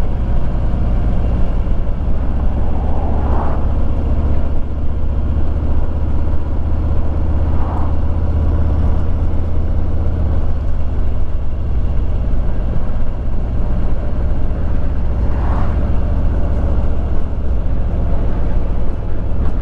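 A 2021 Harley-Davidson Street Glide's V-twin engine running steadily under way, with road and wind noise. A rushing sound swells briefly three times.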